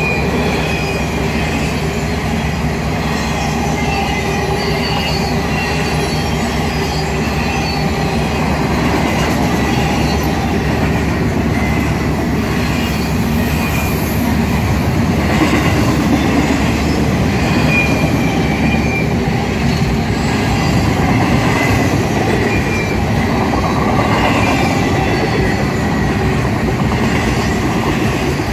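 Double-stack intermodal freight train rolling past close by on the adjacent track: a steady, loud rumble and rattle of steel wheels on rail, with short high wheel squeals coming and going.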